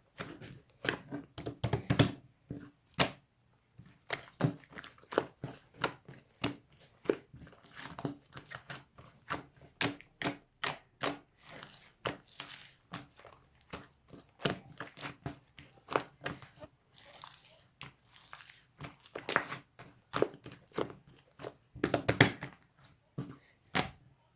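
A large blue slime being squished and stretched by hand, making irregular short clicks and pops, some in quick clusters.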